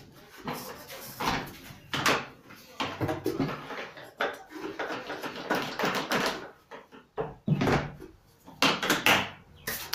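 Irregular knocks, clicks and clatter of a plastic vacuum cleaner being handled, with no motor running.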